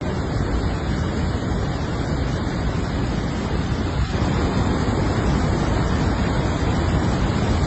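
Steady rushing noise, heaviest in the low end, with no break or change.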